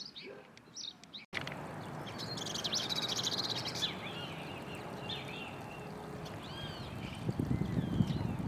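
Wild birds calling: short repeated chirps, then after an abrupt cut about a second in, a fast high trill and several short swooping calls over a steady outdoor noise bed. Low rumbling thumps near the end.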